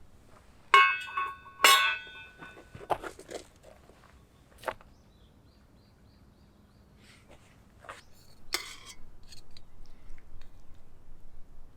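Two ringing clinks about a second apart, like tableware struck together, followed by scattered small clicks and soft handling noise.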